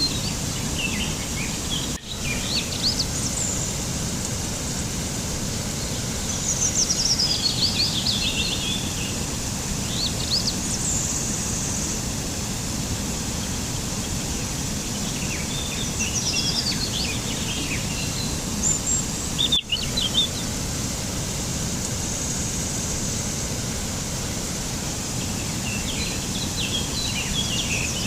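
Small birds chirping in short clusters of quick high notes every few seconds over a steady low rushing background noise. The sound drops out briefly twice, about two seconds in and about two-thirds of the way through.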